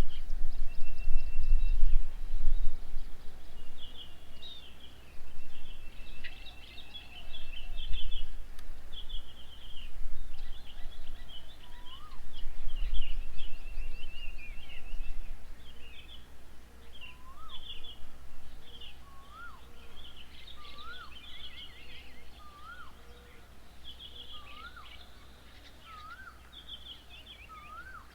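Many wild birds chirping and chattering, with one bird repeating a short call over and over through the second half, each call a little higher than the last. Low rumbling bursts come and go in the first half.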